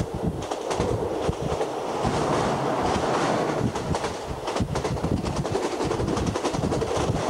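Passenger train of the State Railway of Thailand running at speed: a steady rumble with dense, irregular clatter and clicks from the wheels on the track.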